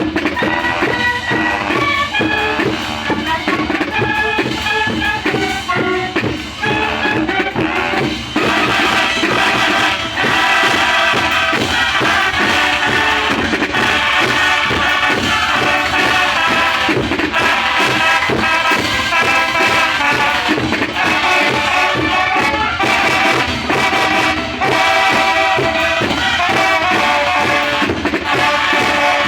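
Student marching band playing: horns over a steady beat of drums, getting louder and fuller about eight to ten seconds in.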